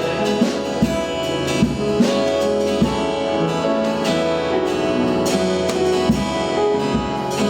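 Worship band playing an instrumental passage: keyboard and guitar chords over a steady drum beat.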